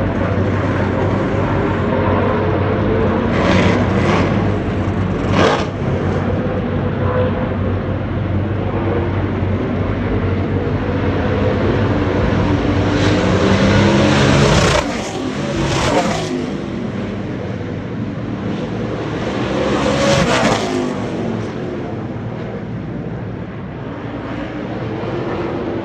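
NASCAR Craftsman Truck Series race trucks' V8 engines running at speed, with rising and falling engine notes as trucks go by. There are louder close passes about five, fifteen and twenty seconds in, and the one near fifteen seconds is the loudest.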